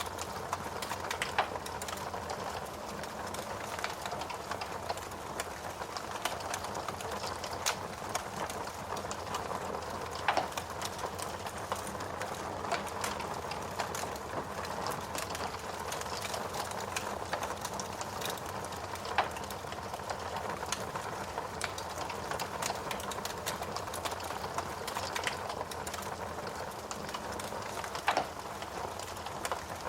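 Fireplace fire crackling: a steady hiss of burning with frequent small pops and a few louder snaps spaced several seconds apart.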